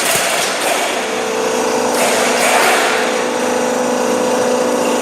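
Galvalume light-steel roll forming machine running, a steady motor hum with noisy metallic rushes, the loudest about two to three seconds in.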